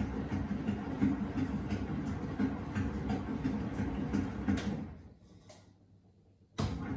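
Miele WS 5508 washing machine running a wool wash: a steady churning and rumble with light irregular knocks. About five seconds in it fades almost to quiet, then starts again abruptly near the end.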